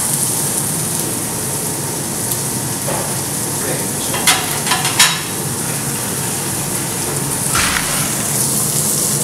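Diced boiled potatoes sautéing in a frying pan over a gas flame: a steady sizzle, with a couple of sharp clicks about four and five seconds in.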